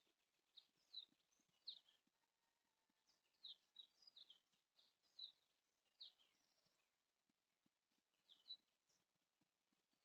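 Faint bird chirps over near silence: short, high chirps at irregular intervals, with a lull about two thirds of the way in.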